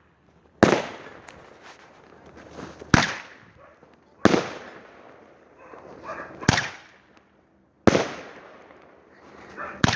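Fireworks going off: six sharp bangs, one every one to two seconds, each followed by a fading tail.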